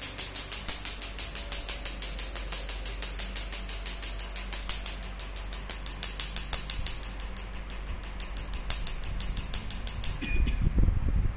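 Q-switched Nd:YAG tattoo-removal laser firing a fast, even train of pulses, a sharp snap at each shot about six times a second, over a steady machine fan hum. The firing stops about ten seconds in and is followed by a short electronic beep.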